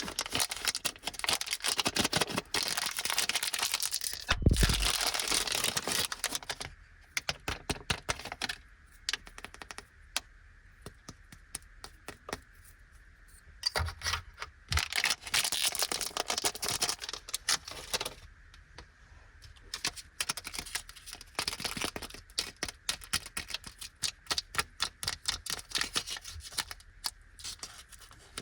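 Plastic candy wrappers crinkling, rustling and tearing as they are opened by hand, with many small clicks and taps in several bursts separated by short pauses. A dull thump about four and a half seconds in.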